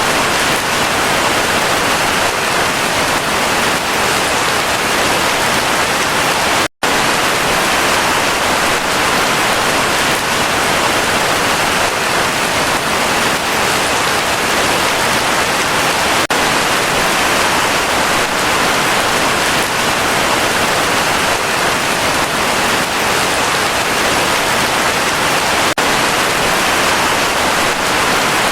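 Heavy rain falling steadily, a dense, even hiss of many drops. It cuts out for a split second about seven seconds in.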